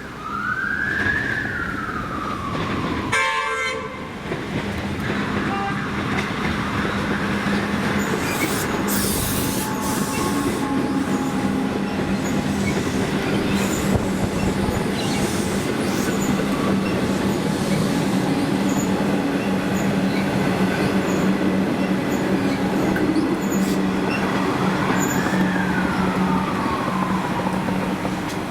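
Melbourne suburban electric train running through a station, with a steady low hum and wheel noise on the rails. A whine rises then falls twice, once near the start and once near the end.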